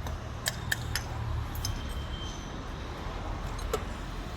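A few light metallic clinks, as of tools or small metal parts being handled, over a steady low rumble.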